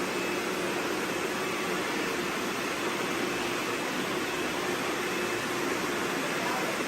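Many robot vacuums running at once, a steady whirring hum of their motors and brushes.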